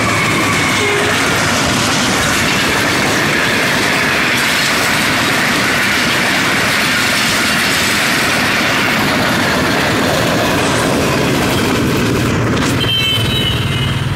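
Passenger coaches of an express train passing close by at over 100 km/h: a loud, steady rush of wheels on rail with clickety-clack. Near the end the rush stops abruptly and a low engine hum takes over.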